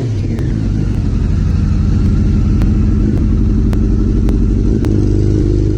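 A motorcycle engine running loud and steady, cutting off abruptly at the end.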